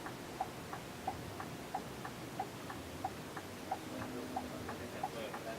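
Steady, even ticking, about three ticks a second, over a low background rumble.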